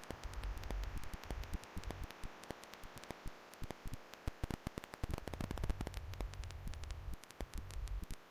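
A steady hiss with dense crackling clicks throughout, and two long stretches of low rumble, from the start to a little past two seconds and again from about five seconds to near the end, typical of wind buffeting the microphone.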